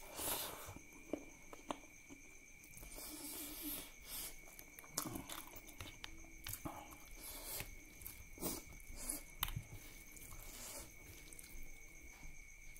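Close-up eating sounds of rice and wet curry eaten by hand: irregular wet chewing and lip smacks, with soft squelches of fingers working the food on the plate.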